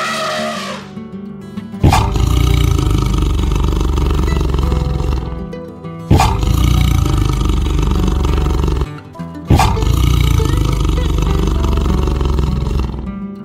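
A big cat roaring three times over background music, each roar starting suddenly and lasting about three seconds.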